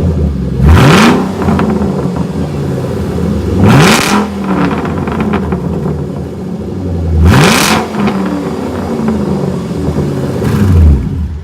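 Supercharged 5.8-litre V8 of a 2013–14 Shelby GT500 running with its mufflers removed, blipped three times to a quick rise in revs and falling back to idle each time. It rises once more and is switched off right at the end.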